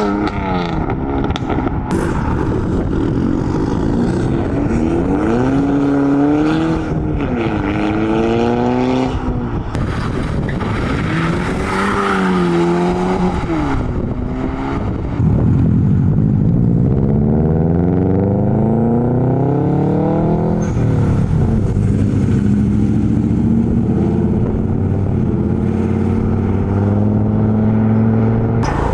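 Engines of modified cars revving and accelerating as they pull away, their pitch rising and falling several times. About halfway through a louder car accelerates with a long rising pitch, drops back, then holds a steadier note near the end.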